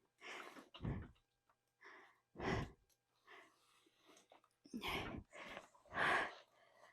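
A woman breathing hard through a string of short, puffing breaths and exhales, one every second or so, the loudest near the start and near the end. It is the breathing of physical exertion while holding the bike's balance.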